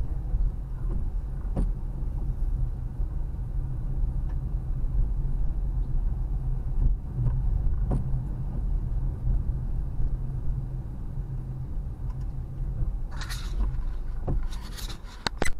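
Car driving, heard from inside the cabin: a steady low road and engine rumble, with a few short noisy swishes near the end.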